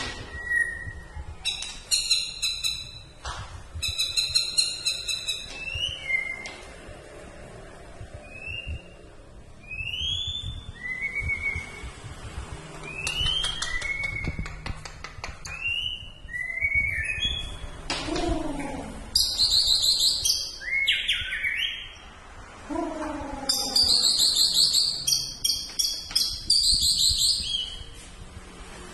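A songbird singing vigorously: bursts of fast warbled trills and short rising whistled notes, with the fullest, loudest phrases past the middle and again near the end.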